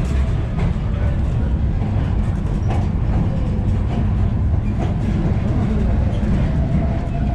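Steady low rumble of a passenger train car rolling along the track, with a few sharp clacks from the wheels scattered through it.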